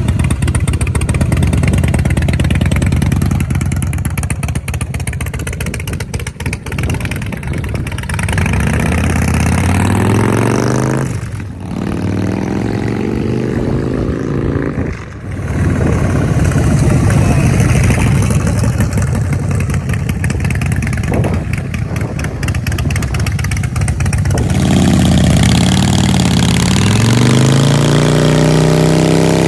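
Harley-Davidson CVO Breakout's V-twin engine and exhaust idling with an uneven beat, then revved several times, the pitch rising and falling, with two brief sharp drop-offs midway. Near the end it is held at a steady higher speed.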